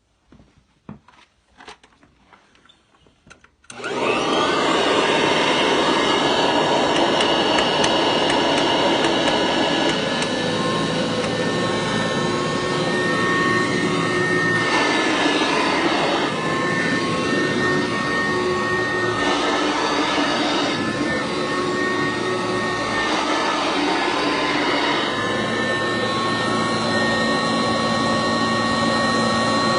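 Kirby Classic Omega upright vacuum cleaner, quiet with a few faint clicks at first, then switched on about four seconds in and running steadily at full power with a high whine that wavers a little in pitch as it works.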